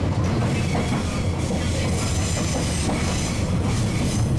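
185-series Odoriko limited express train running on the rails, heard from on board: a steady rumble of wheels on track, with a faint high squeal from the wheels on a sharp curve starting a little over a second in.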